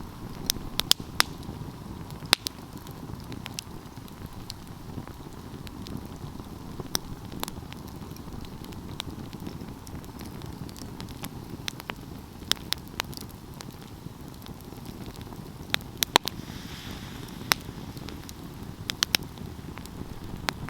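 Wood fire burning, with irregular sharp crackles and pops over a steady low rush of flames.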